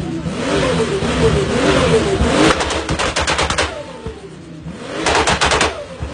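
Tuned, turbocharged Nissan Patrol engine revved up and down twice. Each rev is followed by a rapid chatter of sharp clicks as the throttle is let off.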